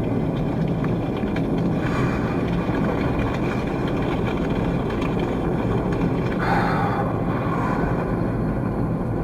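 Car's engine and road noise heard from inside the cabin while driving, a steady low rumble.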